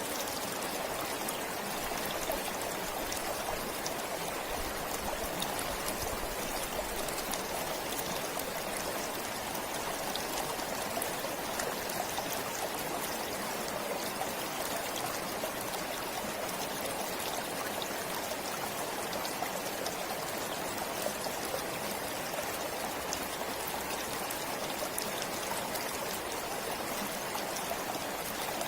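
A forest stream flowing steadily, water trickling and splashing over stones.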